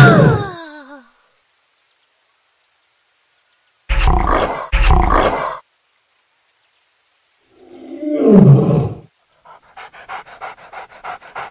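Lion roars: one falling away right at the start, two rough low bursts about four to five and a half seconds in, and another roar falling in pitch about eight seconds in. A quick run of faint clicks follows near the end.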